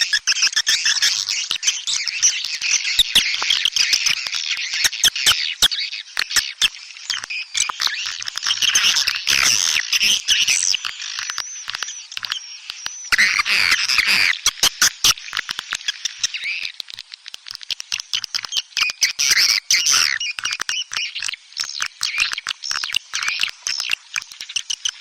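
Dense, continuous chorus of swiftlet twittering and chattering calls, many rapid chirps and clicks overlapping. It is a swiftlet lure-call recording (suara panggil), played to draw swiftlets into a nesting house.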